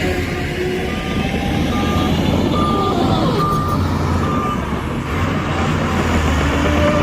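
Heavy diesel machine's engine running while its reversing alarm beeps at one pitch, about once every 0.8 s. The beeping stops a little past the middle, leaving the engine running.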